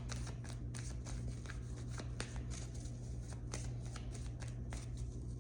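A tarot deck being shuffled by hand, the cards slapping and clicking in quick irregular flurries, over a steady low hum.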